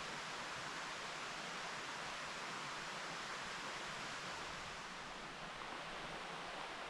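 Mountain stream babbling over rocks, a steady even rush of flowing water.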